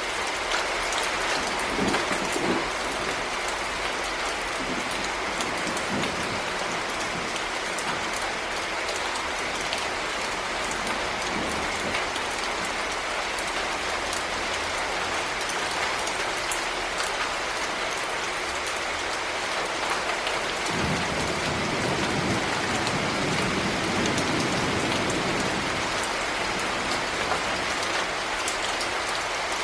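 Heavy rain falling steadily on a surface, a dense even patter. About two-thirds of the way through, a low rumble swells for a few seconds under the rain.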